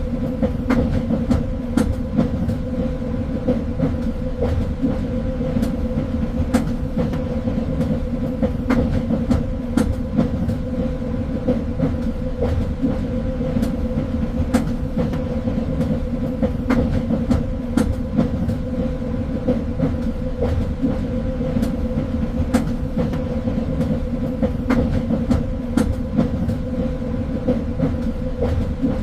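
Train running steadily along the track: a continuous low rumble with a steady hum, and scattered sharp clicks and knocks from the wheels on the rails.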